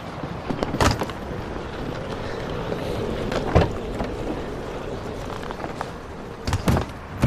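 Steady rumble of a car, broken by a few sharp knocks or thumps: one about a second in, one midway, and two close together near the end.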